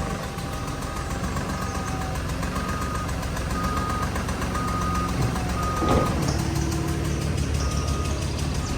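A vehicle's warning beeper sounding in short, evenly spaced beeps about once a second over a steady low engine hum, as the vehicle slowly pushes or pulls a heavy load. A single knock about six seconds in.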